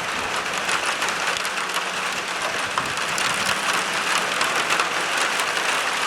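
Rain falling steadily: a dense, even hiss of many small drop hits.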